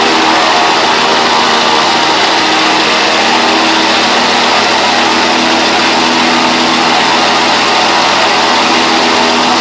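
An-2's ASh-62IR nine-cylinder radial engine running loud and steady at an unchanging speed during a ground run-up after long storage.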